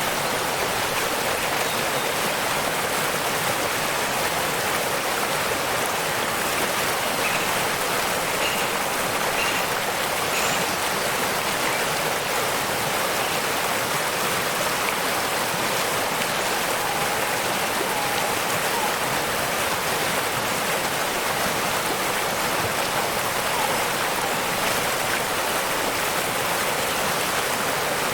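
Waterfall water rushing in a steady, even hiss that does not change. A few faint short chirps come through about a quarter of the way in.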